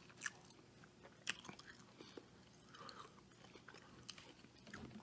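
Faint chewing of a mouthful of bacon cheeseburger, with a few sharp wet mouth clicks: one just after the start, one about a second later, and one near the end.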